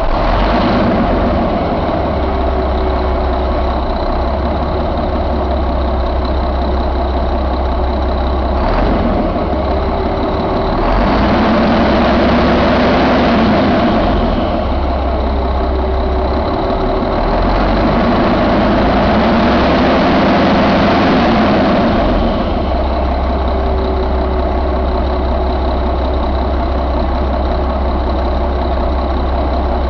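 1997 Mack E7 inline-six diesel engine idling, revved up twice for a few seconds each, about a third and about two thirds of the way through, then settling back to idle.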